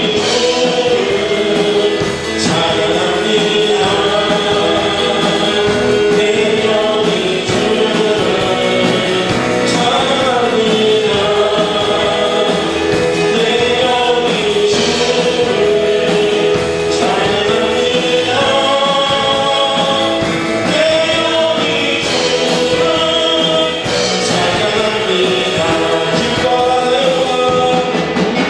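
Congregation singing a Christian praise song with band accompaniment.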